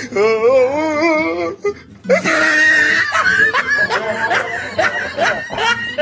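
Laughter over music: a wavering pitched vocal sound, then from about two seconds in, laughter in quick rhythmic bursts.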